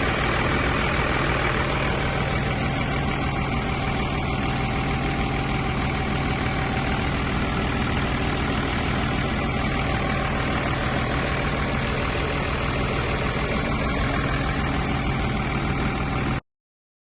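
Deutz BF6M1012E six-cylinder diesel of an O&K MH 5.5 wheeled excavator running steadily at idle, with no revving; the sound cuts off suddenly near the end.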